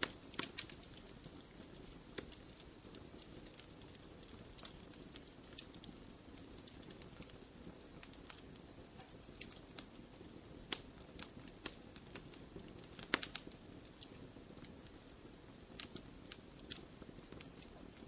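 Wood fire in a fireplace crackling: irregular sharp pops and snaps, a few louder ones such as a cluster about half a second in and another near thirteen seconds, over a faint low steady hiss of the flames.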